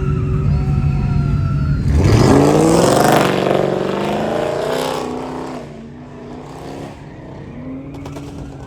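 A vehicle engine revs hard about two seconds in, its pitch climbing steeply, with a harsh noisy edge; the sound dies away over the next few seconds, leaving a quieter engine note.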